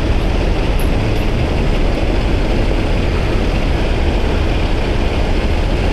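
Steady, loud vehicle rumble with a heavy low end and no clear pitch.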